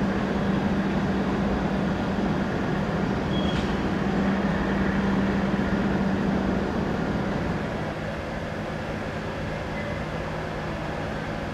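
E7 series Shinkansen train running past with a steady hum over a broad rumble. About seven seconds in, the sound drops to a quieter, lower two-note hum as another Shinkansen train approaches.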